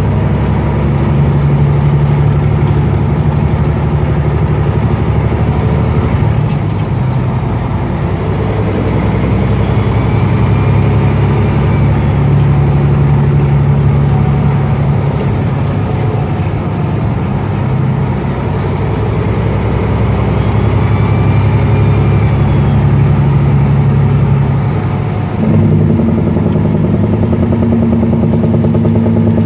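Peterbilt truck's Caterpillar 6NZ straight-six diesel running loud and steady, with a high turbocharger whistle that rises and falls twice. The engine note changes abruptly about 25 seconds in.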